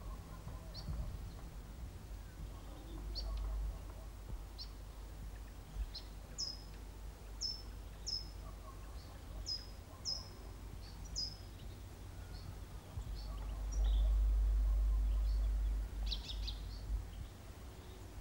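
Small bird chirping: short, high chirps that drop in pitch, repeated about once a second for a while, with a quick flurry near the end. Under them runs a low rumble that grows louder for about two seconds a little past the middle.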